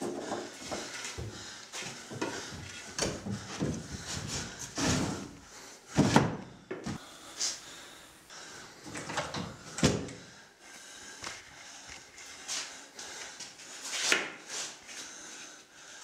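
Wooden drawers and doors being opened, shut and rummaged through in a small room: irregular knocks, slides and clatters, the loudest about six and ten seconds in.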